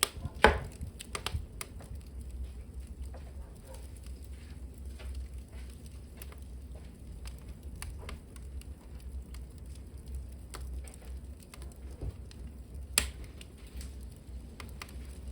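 Wood fire crackling in a hearth: scattered small crackles and pops over a low steady rumble, with a loud pop about half a second in and another near the end.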